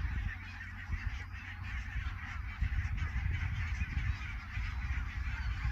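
A flock of wild geese, greylag geese among them, calling together in a dense, continuous chatter of honks.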